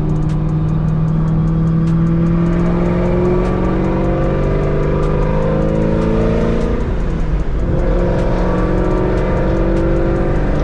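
Chevrolet Camaro ZL1's supercharged V8 through a Corsa exhaust, pulling up through a gear with the pitch climbing steadily. About seven seconds in the pitch drops at a gear change, then it climbs again.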